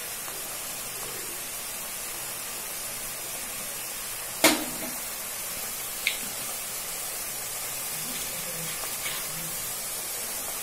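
Potatoes and spice masala frying in oil in a wok, a steady quiet sizzling hiss, with one sharp knock about four and a half seconds in and a lighter click about a second and a half later.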